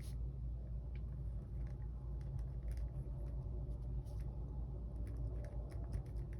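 Faint, scattered light ticks and taps of paper planner stickers being handled and pressed onto a page, over a steady low hum.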